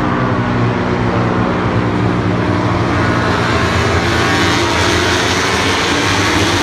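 A loud, steady engine drone held at one constant pitch, with no rise or fall.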